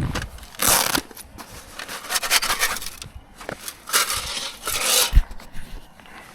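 Irregular rustling and scraping of gear being handled, in uneven bursts with a few sharp knocks.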